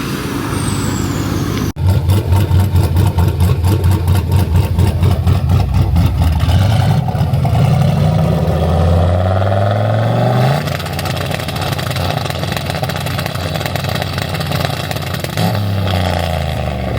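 Truck engine running with a pulsing, uneven beat, then revving up, its pitch climbing for about four seconds before dropping suddenly, with another change in revs near the end.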